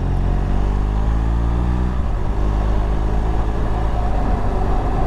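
BMW R1200GS boxer-twin engine running while riding, with heavy wind rumble on the microphone. The engine's pitch holds clearly for about two seconds, then sinks into the wind noise.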